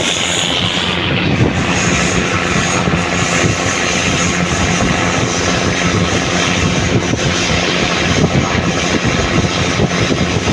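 Diesel locomotive engine running hard under throttle as the train pulls out of the station, a loud steady drone.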